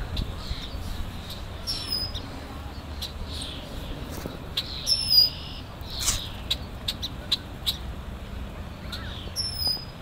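A bird calling over and over with short sharp chips, a few a second. About two and five seconds in, and again near the end, come louder high calls that slide down in pitch. These are the calls of an angry bird in the middle of attacking a person.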